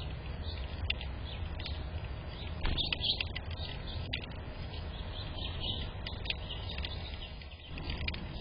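Small birds chirping in short, quick calls, busiest about three seconds in, over a steady low rumble.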